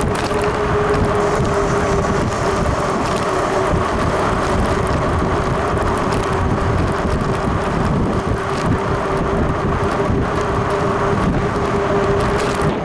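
Wind rushing over the microphone of a moving e-bike, with a steady whine from the e-bike's electric motor holding one pitch under it.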